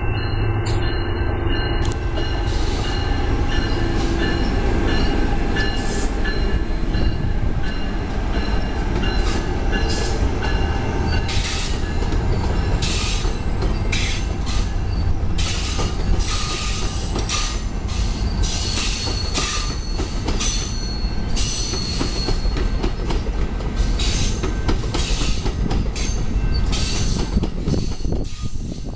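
Commuter train rolling past at close range: a steady, loud rumble of wheels on rail with repeated high-pitched wheel squeals coming and going from about two seconds in.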